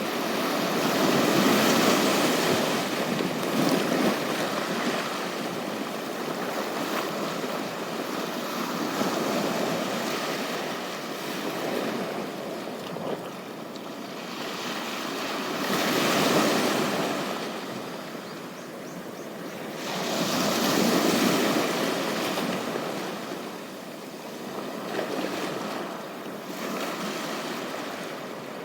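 Ocean waves washing onto a beach, the surf swelling and easing again several times, loudest about two seconds in and again at about sixteen and twenty-one seconds.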